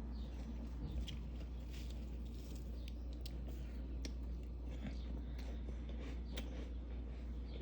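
Close-up chewing of crunchy freezer frost: many small, irregular crackles and crunches, over a steady low hum.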